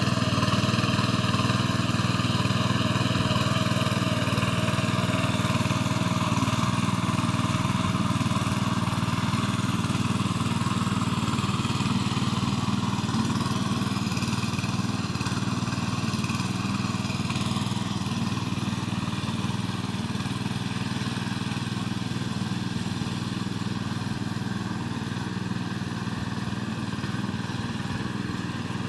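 Mini tractor engine running steadily under load, its level easing off slightly toward the end.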